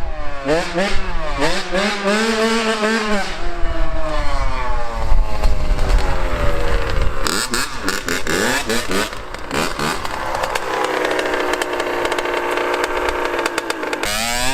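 Dirt bike engine revving and shifting up through the gears, its pitch climbing and dropping several times. Later it holds a steady high pitch for a few seconds, then drops off near the end.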